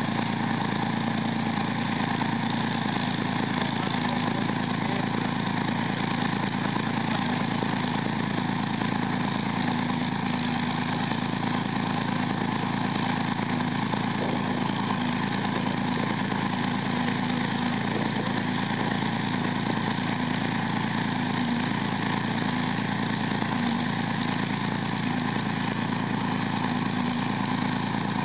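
Rolls-Royce Meteor 27-litre V12 tank engine running steadily at a constant idle, with no revving.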